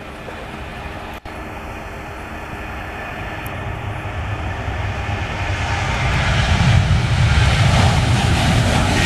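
Boeing 737-800 jet engines at takeoff thrust on departure, the roar and low rumble growing steadily louder as the aircraft comes past. A brief dropout about a second in.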